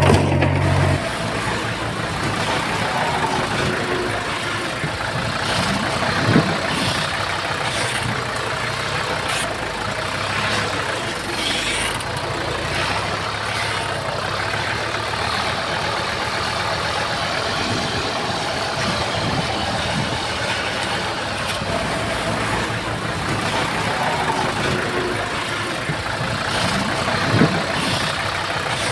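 Diesel engine of heavy earthmoving equipment running steadily, with two brief sharp knocks, one about six seconds in and one near the end.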